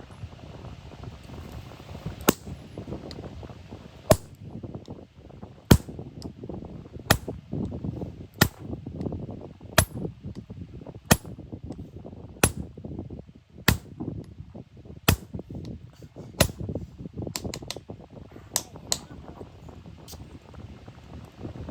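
Hammer striking hot iron on an anvil in a steady rhythm, about one sharp blow every second and a half, with a quicker run of lighter blows near the end.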